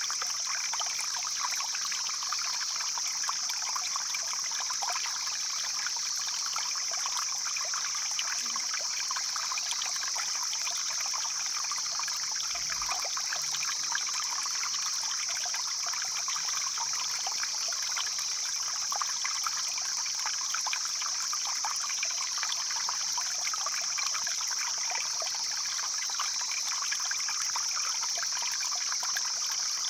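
Stream water flowing steadily, with an even high-pitched hiss over the rushing.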